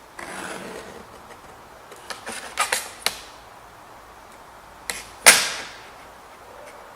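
A scriber scratching marking-out lines on sheet metal, with small clicks as the tools are moved. There is a cluster of clicks around three seconds in and one sharp metallic clack with a short ring about five seconds in.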